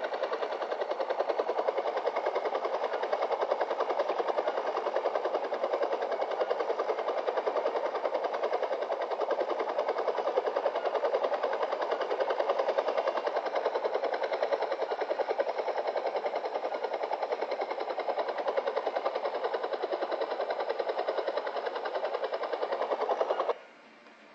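A steady mechanical drone with a fast, even flutter that cuts out briefly near the end.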